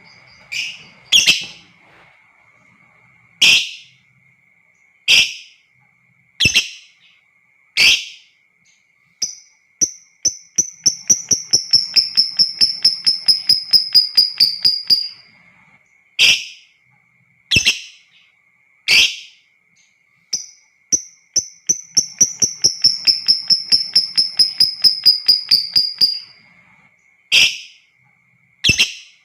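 Lovebird calling: sharp single shrieks about every second and a half, twice breaking into a long rapid chattering trill of about five seconds, the 'ngekek panjang' song. A faint steady high tone runs underneath.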